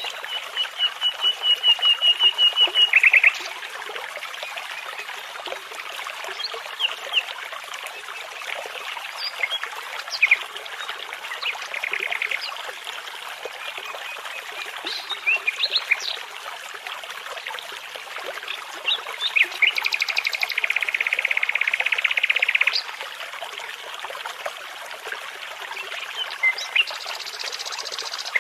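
Songbirds singing over a steady babbling brook. A rapid run of repeated notes opens, speeding up and ending in a flourish; scattered chirps follow, then a buzzy trill about two-thirds of the way through, and high notes near the end.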